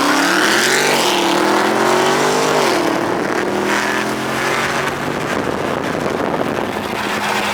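A car engine revving hard, its pitch climbing in the first second, holding high, then dropping off about three seconds in and settling to a steadier drone.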